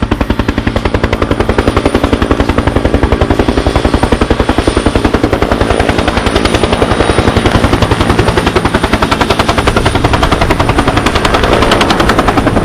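Car engine held on a rev limiter, its exhaust firing a loud, rapid and even stream of pops.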